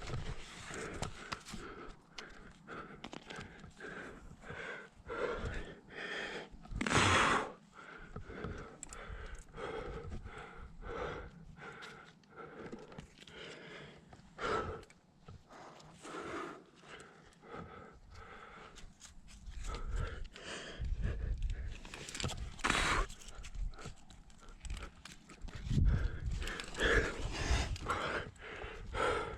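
A climber breathing hard and panting while climbing, with scuffs and knocks of hands and bare feet on the rock.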